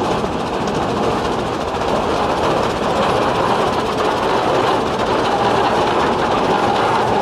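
Steam traction engine running, a steady dense mechanical noise.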